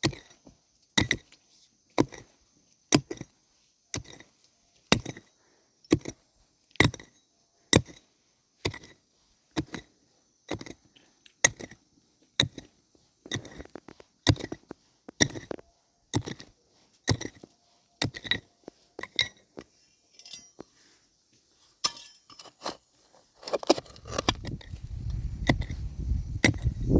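A tool striking wood in steady blows about once a second, each with a short metallic ring, as in hammering or chopping during timber roof building. The blows become irregular and weaker toward the end, and a low rumbling noise comes in near the end.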